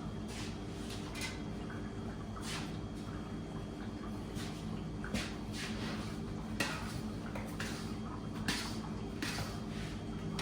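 Kitchen work sounds: a dozen or so scattered light knocks and clatters over a steady low machine hum.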